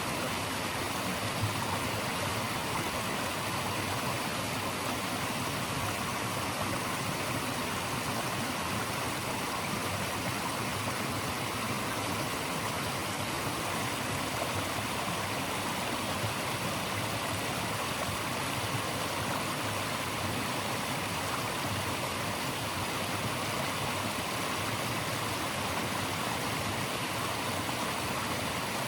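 Steady, even rushing of flowing water, a natural stream or cascade used as white noise.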